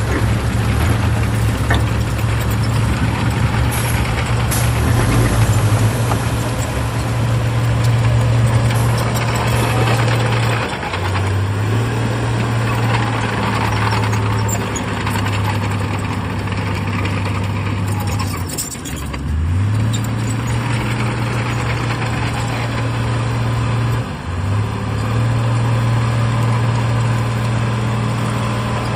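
Heavy diesel earthmoving engine running steadily under load. Its engine note sags and recovers three times: about ten seconds in, deepest a little past the middle, and briefly later on.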